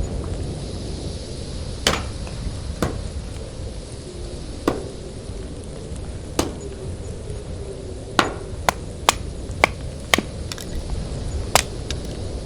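About ten sharp knocks at irregular spacing, several in quick succession near the end, over a steady low rumble of wind.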